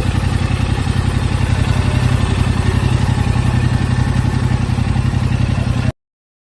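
2021 Yamaha R7's 689 cc parallel-twin engine idling steadily with an even, pulsing exhaust note. The sound cuts off abruptly near the end.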